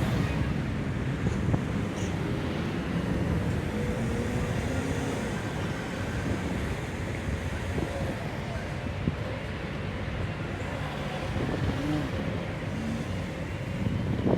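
Wind rushing over the microphone of a rider moving on an electric unicycle, a steady low rumble with faint road noise underneath.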